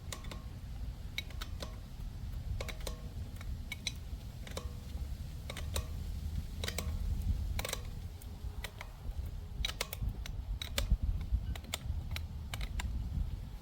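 Irregular metallic clicks and clinks of tools and parts being handled, some ringing briefly, over a low rumble.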